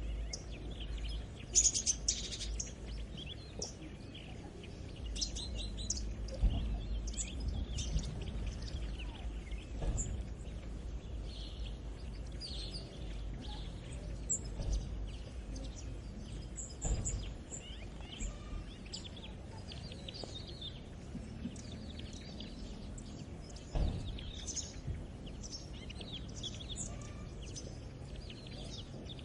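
Many small birds chirping and singing in a steady dawn chorus, over a low steady rumble, with a few brief louder knocks here and there.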